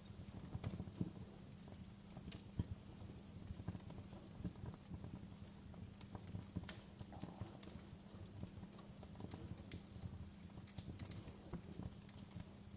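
Wood fire crackling in a fireplace: irregular sharp pops and snaps, a few louder ones, over a steady low rumble of the burning.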